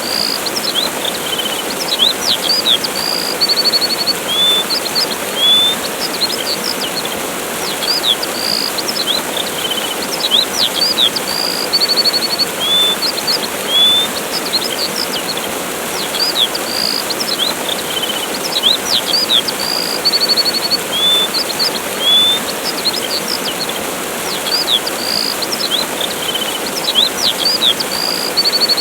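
Steady rushing of a waterfall with many small birds chirping over it: quick high downward-sweeping chirps and short trills, several a second.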